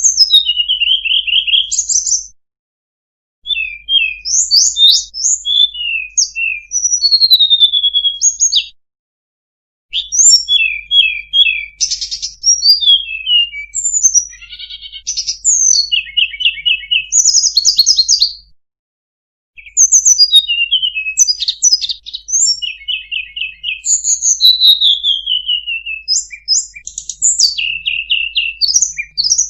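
Tledekan gunung singing a long, varied song of rapid trills, chirps and falling whistles, full of mimicked phrases (isian). It sings in bouts of several seconds, with brief pauses about three seconds in, about nine seconds in and about nineteen seconds in.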